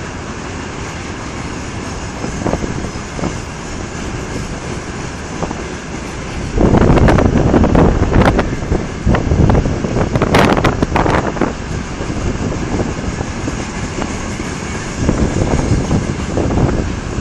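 Freight train rolling on rails with a steady rumble. A louder stretch of wheel clatter and sharp knocks comes in around the middle, and a smaller rise follows near the end.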